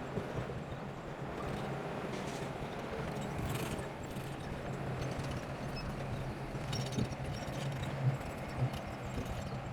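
Bulldozer diesel engine running steadily under a low hum, with irregular sharp knocks and clanks of metal and stone.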